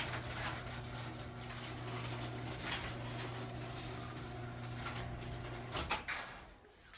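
Liftmaster 1/3 horsepower chain-drive garage door opener running steadily as it closes the door, a humming motor with a chain rattle and quiet squeaks from the door. About six seconds in come a couple of knocks and the motor stops.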